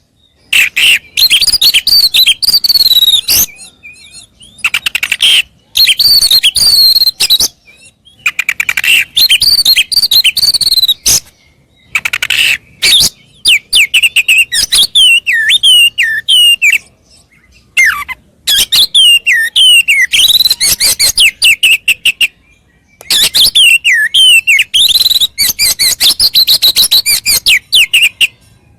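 Oriental magpie-robin (kacer) song: loud bursts of rapid, varied whistles and chirps, each phrase a few seconds long, separated by short pauses of about a second.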